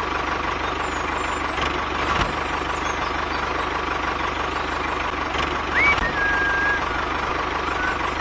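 Engine running steadily with a fast, even low chugging. About six seconds in, a short rising whistle-like tone comes in and holds briefly.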